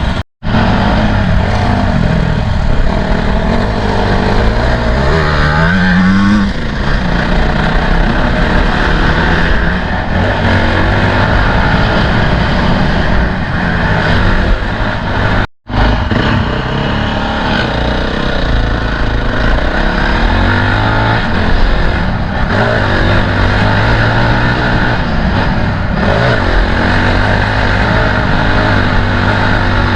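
Dirt bike engines running and revving, the pitch rising and falling with the throttle, with two abrupt cuts in the sound, one near the start and one about halfway through.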